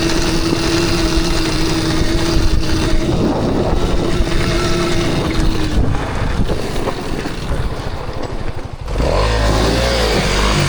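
Gas dirt bike engine running under way, its note holding steady, over a heavy rushing noise. About nine seconds in the sound changes abruptly to an engine with a low, uneven note and a wavering pitch.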